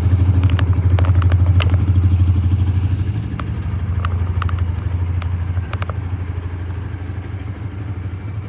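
Suzuki GSX-S150's single-cylinder engine idling with a steady pulsing note, easing down a little about three seconds in and again near six seconds. Scattered light clicks sound over it in the first several seconds.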